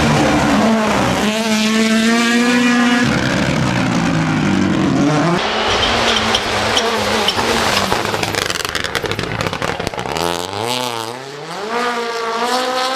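Rally car's turbocharged four-cylinder engine at full attack on a tarmac stage. Revs climb and drop with each gearshift, with a run of crackling pops midway. The revs dip, then rise steeply again near the end.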